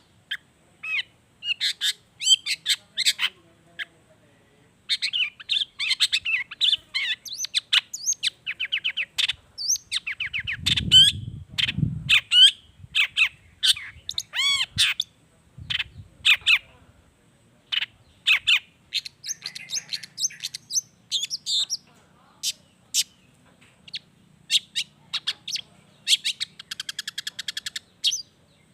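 Long-tailed shrike (cendet) singing a fast, varied song of sharp chirps, trills and imitated calls of other birds, with short pauses between phrases. A brief low rumble comes under the song about a third of the way in.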